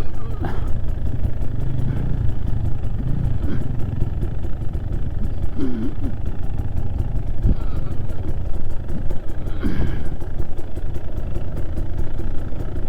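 Trail motorcycle's engine running steadily, a dense low rumble, while riding a rutted byway.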